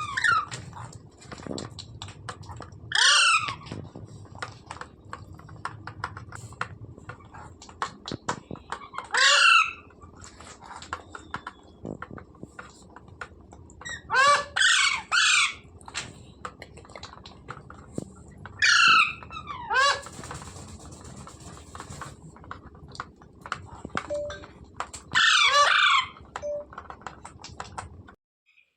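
Rose-ringed (ringneck) parakeet squawking in loud harsh bursts, about six times, each call under a second. Faint clicks come between the calls.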